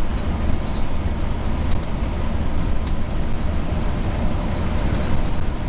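Steady road and engine rumble of a motorhome driving on a highway in a snowstorm, deep and even throughout.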